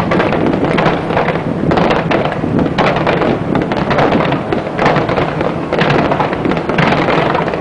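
Fireworks display: a dense, unbroken barrage of aerial shell bursts and crackling, many reports in quick succession.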